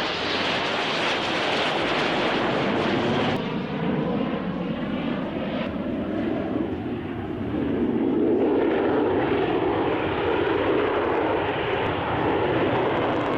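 Fighter jet's engine noise, loud and continuous, with a shift in tone about three and a half seconds in as the pitch slides down.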